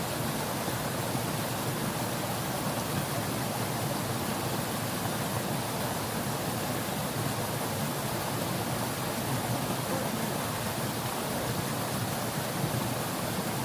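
Fast-flowing river water rushing steadily, an even unbroken hiss.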